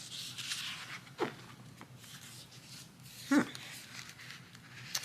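Faint rustling of sticker sheets being handled, with two brief high squeaks that slide downward in pitch, one about a second in and a louder one a little past the middle.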